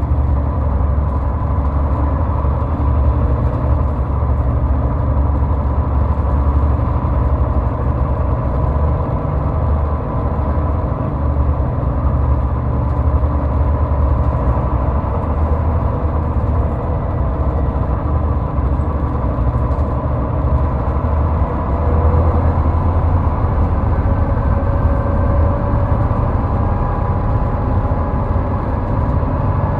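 A car driving on a highway: steady low road and engine rumble, with faint tones that drift slowly in pitch.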